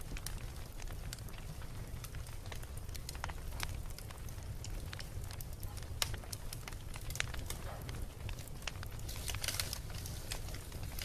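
Beach bonfire burning: wood crackling with irregular sharp pops over a steady low rumble. A short denser stretch of hiss and crackle comes about nine seconds in.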